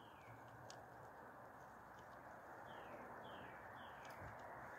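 Faint background hiss with a small bird's short falling chirps: one at the start, then three more in quick succession about three seconds in. A faint click or two is also heard.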